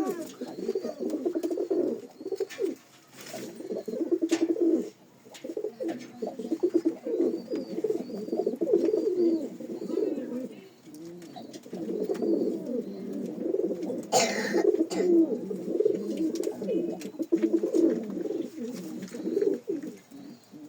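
Several domestic pigeons cooing continuously, their low calls overlapping. A brief hissing noise comes about fourteen seconds in.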